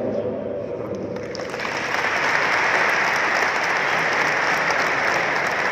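Audience applauding, the clapping swelling in over the first second or two and then holding steady.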